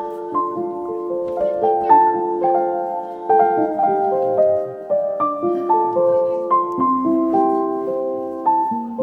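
Background piano music: single notes and chords struck one after another and left to ring and fade.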